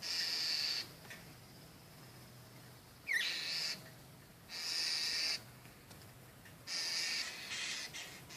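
A bird giving four harsh, buzzy calls, each under a second long and a second or more apart, as in mobbing a hawk.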